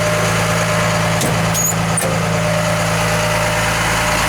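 Cummins 5.9-litre turbo diesel of a 2003 Blue Bird TC2000 bus idling steadily, with a couple of light clicks and a brief high squeak about a second and a half in.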